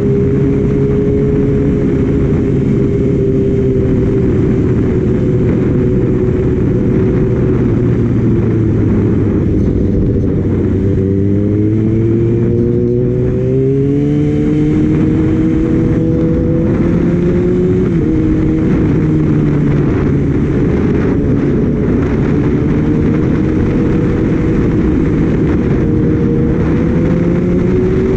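Kawasaki Ninja ZX-6R inline-four engine pulling on the road under heavy wind noise on the microphone. The engine pitch sags, climbs steadily from about 11 s, steps down abruptly about 18 s in, then rises again near the end.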